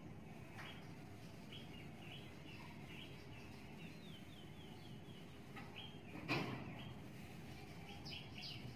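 Small birds chirping in short, repeated high calls, with a run of quick falling notes about four seconds in, over steady low background noise. A single sharp knock about six seconds in.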